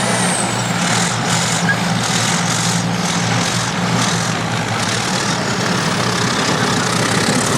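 Diesel engines of vintage crawler bulldozers running steadily at a low, even note.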